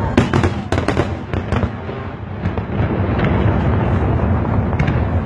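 Fireworks going off: a quick cluster of sharp bangs in the first second and a half, then a continuous low rumble of distant bursts with occasional single bangs.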